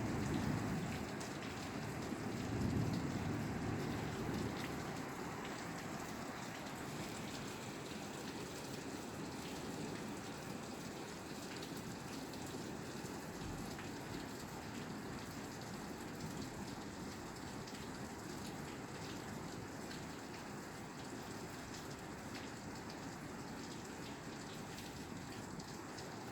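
Steady rain falling on a roof, an even patter of drops. A low rumble swells and fades in the first few seconds.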